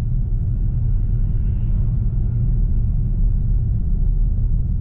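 Steady low rumble of road and tyre noise inside the cabin of a moving BMW i4 M50, an electric car with no engine sound of its own.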